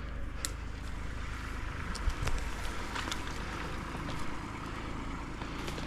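An engine running steadily at a low hum, with scattered light clicks and a couple of louder knocks about two seconds in.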